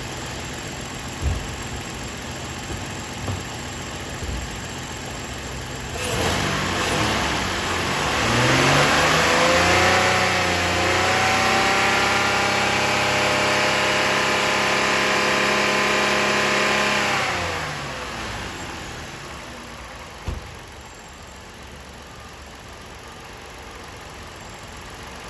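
Engine on test running at idle, then revved up over a few seconds and held at a steady high speed for about six seconds before dropping back to idle. A few sharp knocks sound in the first few seconds and once more about twenty seconds in.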